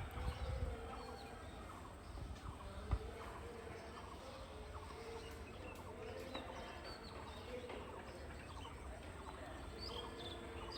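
Outdoor ambience with birds calling: many short chirps and a string of short, repeated low calls, over a steady low rumble.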